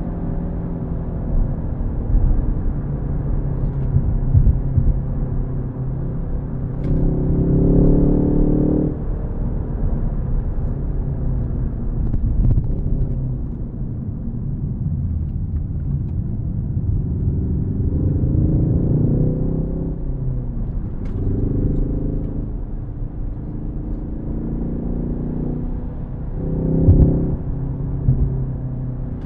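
Ford Focus ST engine under a steady low rumble of road noise. Several times the note climbs in a short pull of a second or two, then drops away as the driver lifts off or shifts the six-speed manual.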